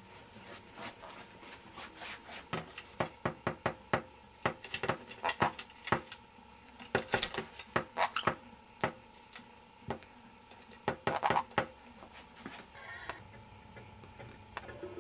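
Rapid, irregular taps and clicks on a hard surface, coming in bursts.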